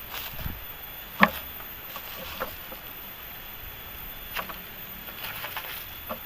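A few scattered sharp knocks and clacks, the loudest about a second in, over a steady faint hiss with a thin high whine like insects.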